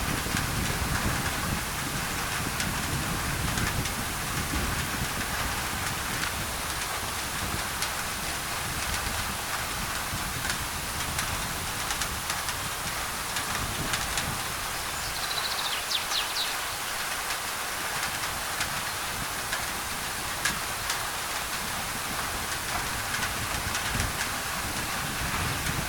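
Steady tropical rain falling on a thin tin roof, with many single drops ticking sharply, mixed with white noise. A low rumble fades out in the first half, and a short high bird chirp sounds a little past the middle.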